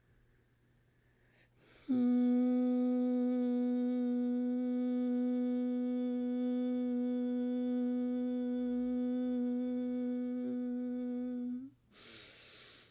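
A woman's voice toning one long, steady hummed note of about ten seconds for sound healing. The note starts about two seconds in and cuts off abruptly, followed by a quick breath in.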